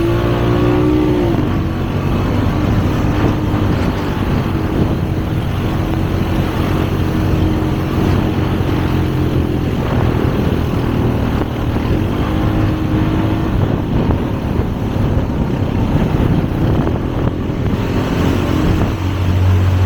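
Motor vehicle engine running steadily while driving, its pitch rising and falling a little, over a constant rough noise of the ride.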